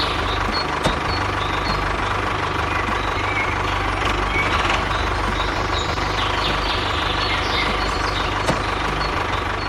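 A small engine or motor running steadily at a low hum, with a sharp click about a second in and another near the end.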